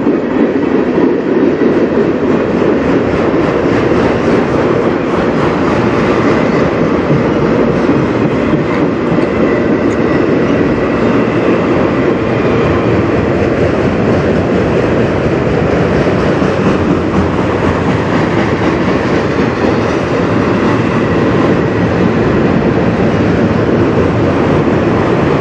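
Freight cars of a CN manifest train rolling past, tank cars and then autorack cars: a loud, steady rumble and clatter of steel wheels on the rails.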